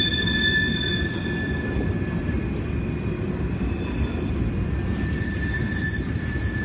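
Train cars rolling past with a steady rumble of steel wheels on rail, and high, thin wheel squeals over it: one fades out about two seconds in and another, higher one sets in near the middle.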